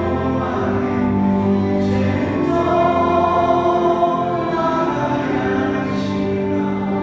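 A vocal group singing a slow musical-theatre song together in harmony, holding long notes.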